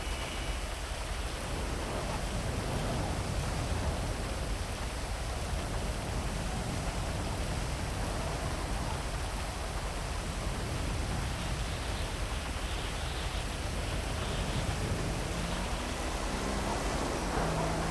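Heavy rain falling steadily, an even hiss over a low rumble. Near the end a faint low droning tone comes in and steps in pitch.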